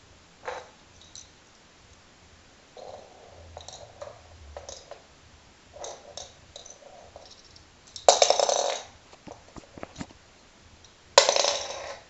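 A kitten at play: scattered light taps and rustles, then two louder rattling bursts of about a second each, one about eight seconds in and one near the end.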